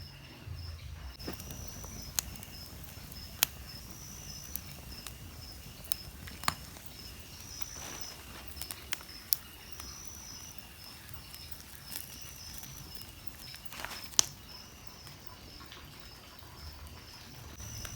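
Freshly lit wood-and-cardboard bonfire burning, crackling with a few sharp pops, over steady pulsing insect chirping.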